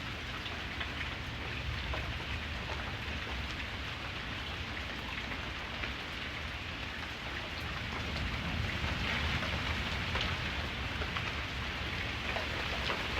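Steady rainfall, with many individual drops ticking, over a low rumble.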